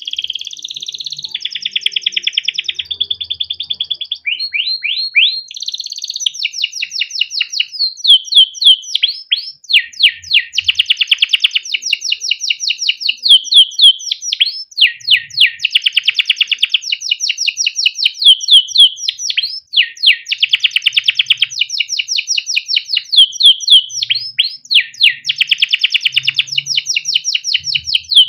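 Male domestic canary singing without a break: long rolling trills of fast repeated sweeping notes, with a change of phrase every second or two, mixed with 'cuit cuit' chirps.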